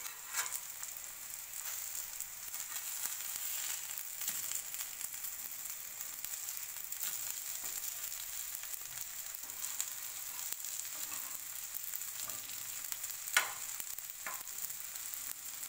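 Chapli kababs shallow-frying in oil on a flat tawa over low heat: a steady sizzling hiss. A metal spatula scrapes and clacks against the griddle now and then as the kababs are turned and pressed, with the loudest clack about 13 seconds in.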